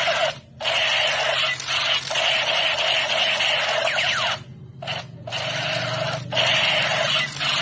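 Electronic toy gun sound effect: a loud, harsh buzzing noise in long stretches, cut by short gaps about half a second in and again around the five-second mark.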